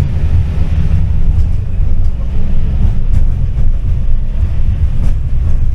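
Tram running, heard from inside the passenger car: a steady, loud low rumble of the running gear and wheels on the rails, with a couple of faint clicks.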